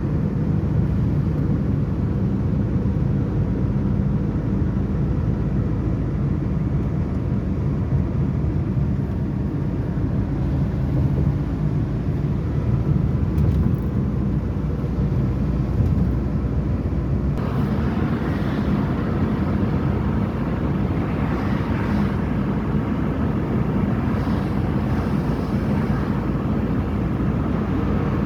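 Outdoor ambience on a rainy day: a steady low rumble, with a brighter hiss coming in about two-thirds of the way through.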